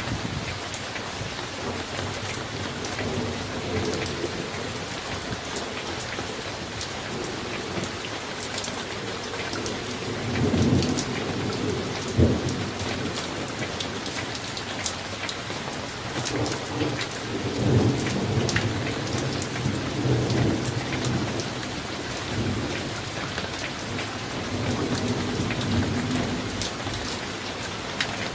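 Summer thunderstorm: steady rain with many distinct drops, and thunder rolling in several times. The first roll comes about a third of the way in, the longest just past halfway, and a weaker one near the end.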